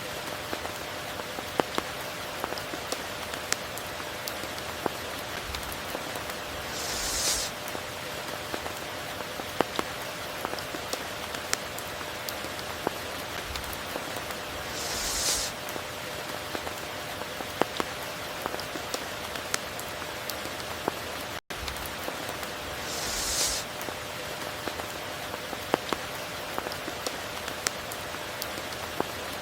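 Steady rain falling, dotted with sharp close raindrop ticks, with a brief hissing swell about every eight seconds. The sound cuts out for an instant about two-thirds of the way through.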